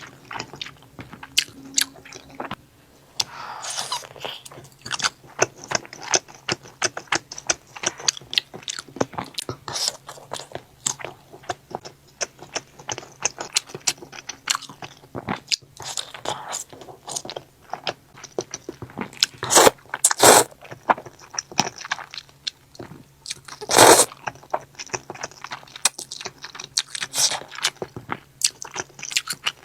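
Close-miked eating: continuous biting and chewing of noodles and grilled sausage, many short irregular mouth clicks and smacks, with a few louder, longer bites about twenty and twenty-four seconds in.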